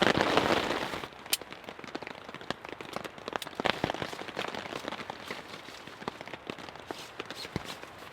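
Rain dripping onto a tarp shelter: scattered, irregular drop ticks over a soft hiss, after a louder burst of noise for about the first second.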